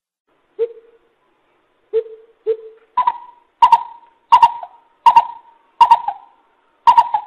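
Coucal (bìm bịp) hooting calls. Three spaced low hoots come first, then from about three seconds in a regular series of higher, louder hoots, roughly one every 0.7 seconds.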